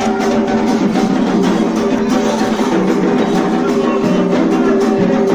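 Ritual drumming: drums and percussion keep a steady beat, with a group of voices holding sung notes over them.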